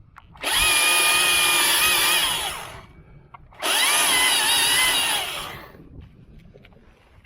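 Battery-powered chainsaw making the face cut: two bursts of cutting about two seconds each, the motor's whine dropping in pitch as each cut winds down.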